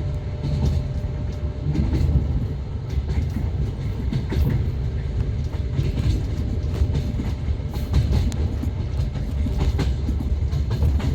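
A passenger train running along the track: a steady low rumble of the carriage, with irregular clicks and knocks of the wheels on the rails.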